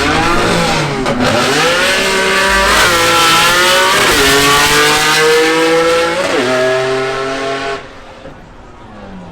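A car engine accelerating hard. Its pitch climbs, then drops sharply about three times as it shifts up through the gears, and it fades away near the end.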